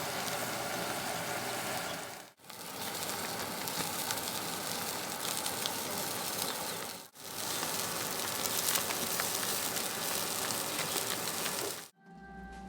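Food sizzling in hot oil or on a hot grill, a steady crackling hiss broken twice by abrupt cuts, with music coming in at the very end.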